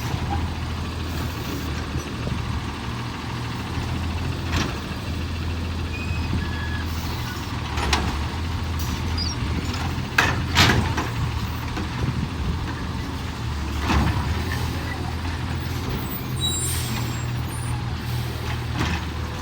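Garbage truck's engine running steadily, with about five short hisses of air-brake release spread through the stretch, the loudest a double hiss about halfway.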